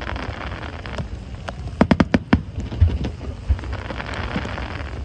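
Fireworks crackling overhead, a dense rain-like fizz of many sharp pops, over low rumbling booms; a burst of louder cracks comes about two seconds in.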